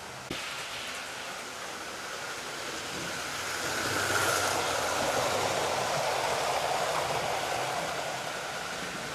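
Hornby 00 gauge Gresley A4 model locomotive with a tender-driven motor running at speed around the track: a steady motor whine and wheel-on-rail hiss that swells as it passes closest about four seconds in, then fades.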